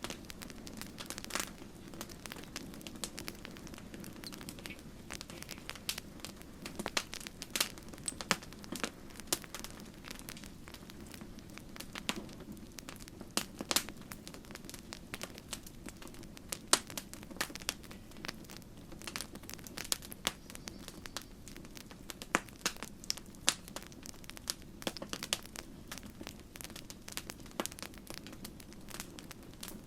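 Campfire crackling: a dense, irregular run of sharp pops and snaps from burning wood over a low steady rush of the flames.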